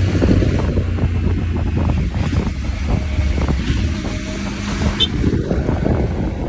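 Motorcycle running along the road, its engine's low rumble mixed with wind buffeting the microphone.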